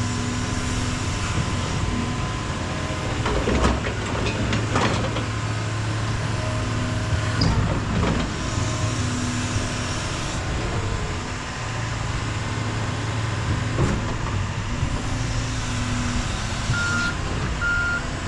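Heavy diesel earthmoving equipment running steadily, with a few knocks along the way; near the end a reversing alarm starts beeping, a little over once a second.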